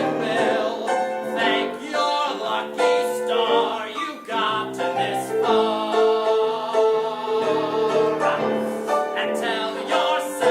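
Man belting the final phrases of a show tune over live piano accompaniment, holding one long note in the middle.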